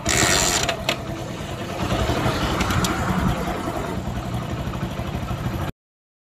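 Hero Honda Splendor motorcycle's single-cylinder four-stroke engine running as the bike pulls away. The sound comes in suddenly and cuts off abruptly near the end.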